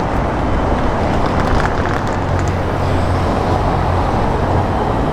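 Busy city street noise: a steady low rumble, stronger through the middle, with wind buffeting the microphone.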